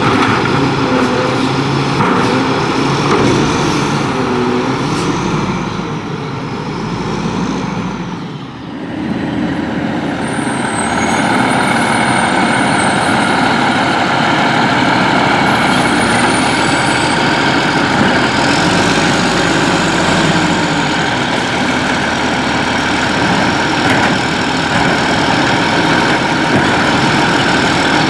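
Volvo WXLL garbage truck with a Labrie Expert 2000 body, running loud and steady. The sound dips briefly about eight seconds in, then comes back steady and fuller until the end.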